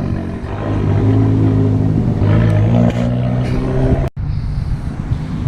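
Car engine running with a deep, steady note that shifts pitch slightly. The sound drops out for an instant about four seconds in, then comes back as rougher engine and traffic noise.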